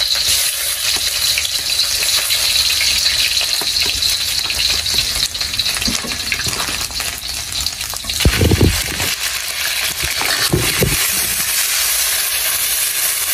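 Food sizzling and frying in a hot wok over an open flame, a steady hiss, with the metal spatula clicking and scraping against the wok as it stirs. A dull thump a little past halfway, with a smaller one a couple of seconds later.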